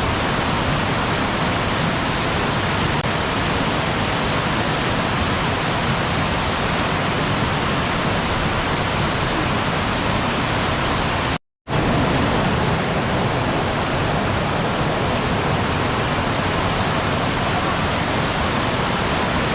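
Waterfall rushing with a steady, even roar of falling water. About halfway through it cuts out completely for a split second and resumes, like an edit or loop seam.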